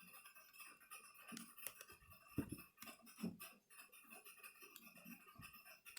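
Near silence with a few faint, scattered clicks and taps: small plastic and metal laptop parts being handled while a replacement battery is fitted into the open case.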